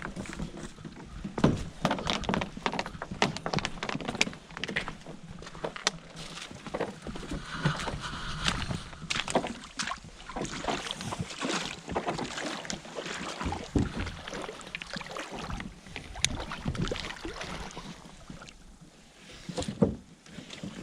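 A canoe being set in the water and loaded at the shore: irregular knocks, clunks and scrapes of the hull and gear, with water noise.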